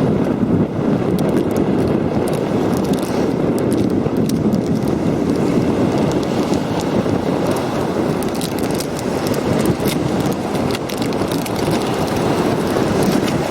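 Wind buffeting the microphone in a steady, loud rush, with scattered faint crackles throughout.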